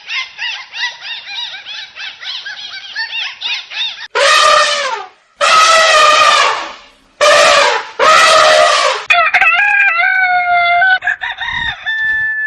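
Chickens calling: a quick run of short clucks, then three loud drawn-out calls, and near the end a crow that steps up and down in pitch.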